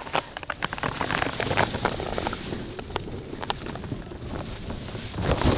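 Open-air sound from a football pitch during play: a quick run of sharp clicks and knocks over a rumble of wind on the microphone, with a louder gust near the end.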